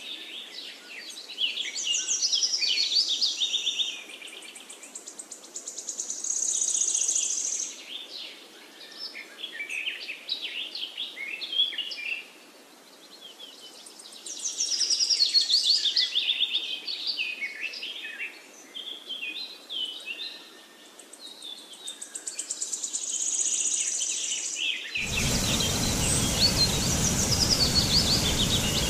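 Several songbirds singing and calling, with quick chirps, trills and sweeping notes in phrases a few seconds long. Near the end a steady rushing noise comes in abruptly under the birdsong.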